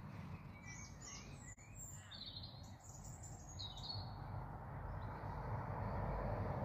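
Small songbirds chirping and singing in a string of short high calls through the first four seconds, over a steady low background noise that grows louder in the second half.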